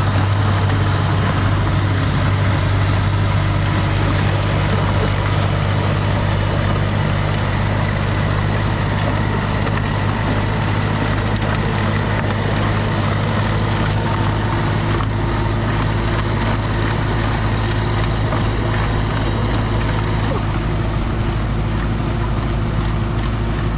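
Massey Ferguson tractor engine running steadily while driving a snowblower through the snow, a constant loud drone with a noisy rush over it.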